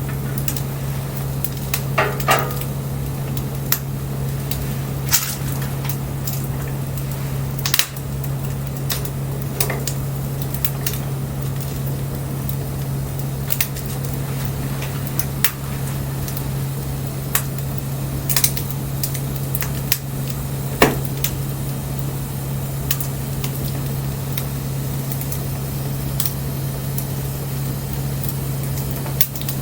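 Wood fire crackling, with irregular sharp snaps and pops, a few of them louder, over a steady low hum.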